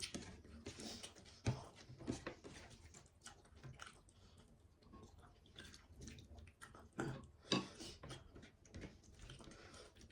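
A person chewing and biting food with wet, irregular mouth smacks and clicks, the sharpest about a second and a half in and again near seven and a half seconds.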